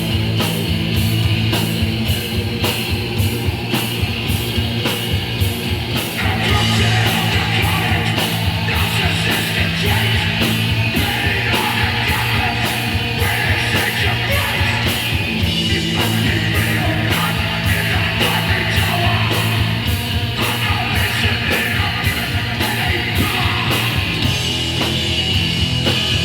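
Hardcore punk band playing live: distorted electric guitar, bass and drums with a steady driving beat, and shouted vocals.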